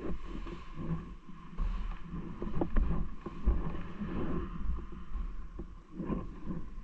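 Wind rumble and road noise on an action camera during a bike ride, with scattered sharp knocks and rattles from bumps.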